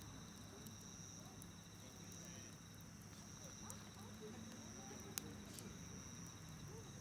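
Campfire crackling with scattered sharp pops, the loudest about five seconds in, over a low rumble. Insects such as crickets trill steadily behind it in spells of about a second.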